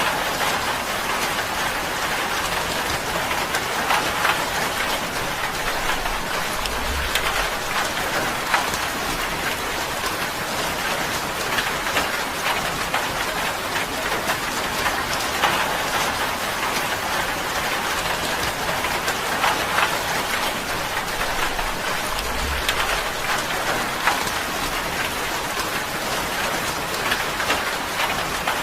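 Steady rain drumming on a tin roof, a dense patter of sharp drop strikes over an even hiss.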